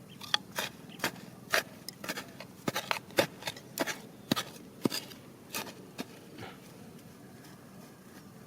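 Digging among stones: quick, irregular sharp knocks and clicks of a tool or rocks striking stone, then quieter over the last two seconds.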